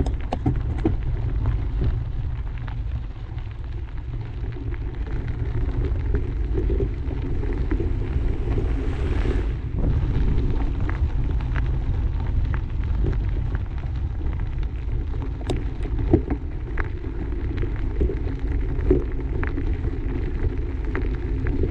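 Wind rumbling on the microphone of a camera riding along on a mountain bike, with mountain bike tyres running over a dirt trail and scattered clicks and rattles from the bike. A brief hiss comes about nine seconds in.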